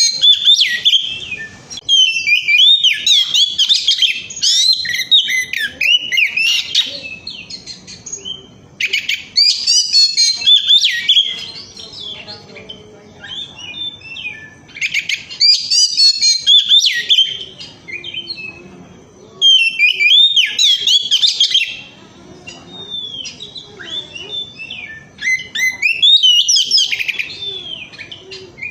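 Oriental magpie-robin (kacer) singing in full song: loud bursts of rich, fast, varied whistled phrases lasting a few seconds each, with softer twittering between them.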